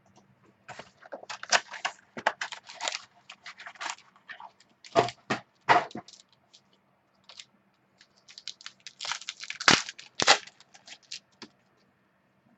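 Trading-card pack being torn open and the cards handled: crinkling wrapper and sharp rustling clicks in irregular bursts, the loudest about five and ten seconds in.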